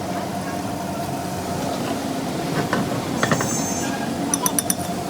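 Steady machine hum with sharp metallic clinks, one group about three seconds in and a quick run of four near the end.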